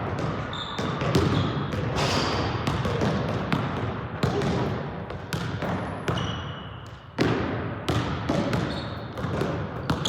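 Basketball bouncing again and again on a gym floor during a game, amid crowd chatter, with short high squeaks here and there.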